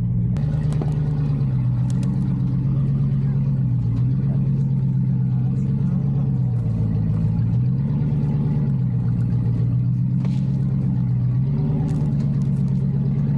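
2018 Ram 1500 pickup driving slowly off-road. The engine drone steps up and down in pitch several times as the throttle changes, with a few faint clicks or snaps.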